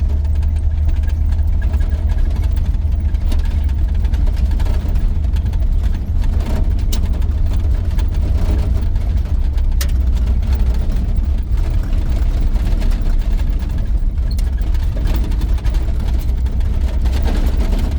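1983 GMC C2500 pickup driving, heard from inside the cab: a steady low engine and road rumble, with a few faint clicks and rattles.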